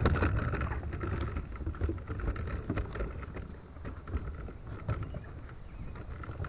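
Crossing a wooden plank bridge: irregular knocks and clatter from the boards over a steady low rumble.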